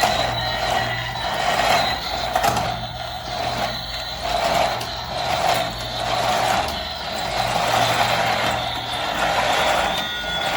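A toy's small electric motor and plastic gears whirring steadily, the sound swelling and easing about once a second.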